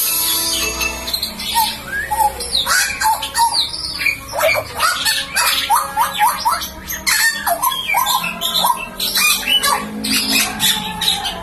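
Butcherbird calling loudly: a rapid, jumbled run of sharp calls and short whistled notes that slide up and down in pitch, with a few longer held notes near the start and the end.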